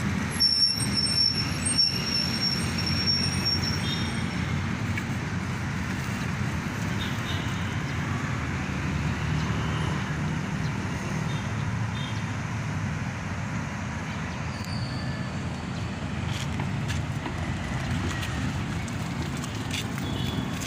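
Steady road traffic noise: a continuous low hum of vehicles and tyres on the road, with a thin high whine during the first few seconds.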